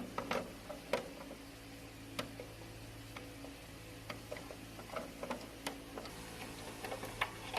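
Irregular light taps and clicks of toy figures being handled and moved around a toy set, over a steady low hum.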